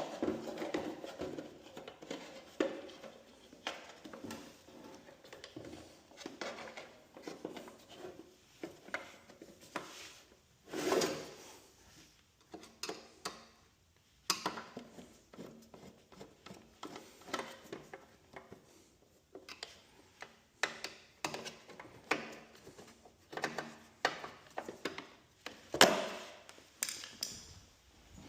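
Scattered clicks, knocks and rubbing from hands-on handling of parts and tools. There is a louder knock about eleven seconds in and a sharp, loud one near the end.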